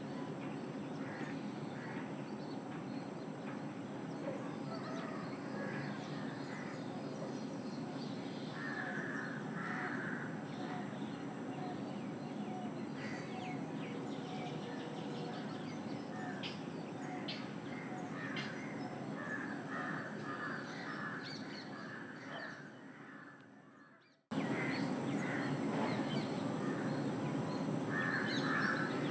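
Morning birdsong: birds calling in short repeated runs over a steady background noise. The sound fades down about 22 seconds in, drops out briefly, then cuts back in abruptly.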